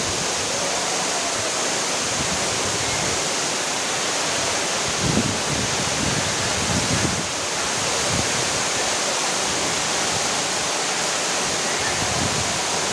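Steady rush of a waterfall: falling water, an even, unbroken roar.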